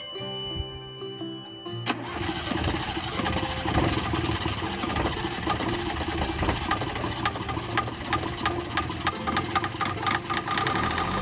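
Plucked-string music for about two seconds, then a sudden cut to a rebuilt Yanmar 3GM30F three-cylinder marine diesel engine running, with a rapid, uneven ticking clatter over it.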